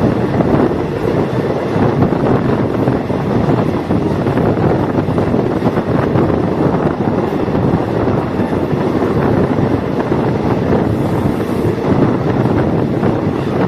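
Diesel multiple unit train running, heard from on board: a steady, loud rumble of engine and wheels on the rails, mixed with wind noise on the microphone.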